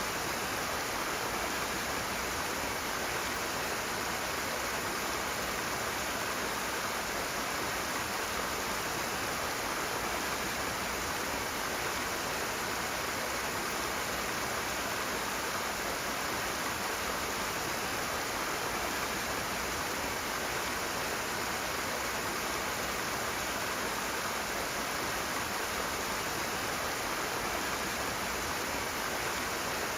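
Rushing water of a stream, a steady, unbroken rush with no let-up.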